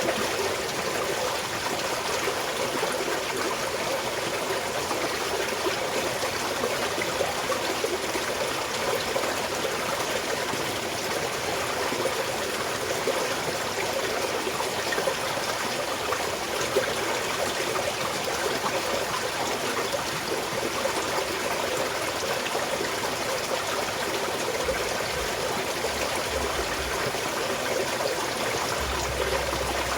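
A small mountain stream trickling and flowing steadily over stones.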